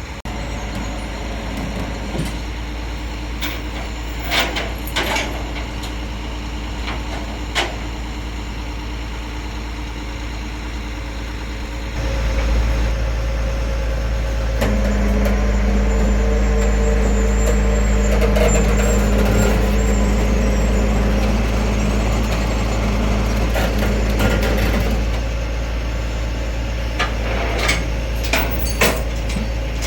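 Tow truck engine idling. About twelve seconds in it runs louder and a steady whine comes in for about ten seconds before easing off, with a few short clanks.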